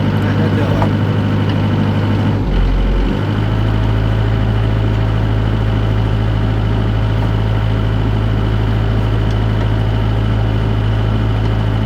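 Excavator diesel engine running steadily at idle. Its note briefly drops about two and a half seconds in, then settles back.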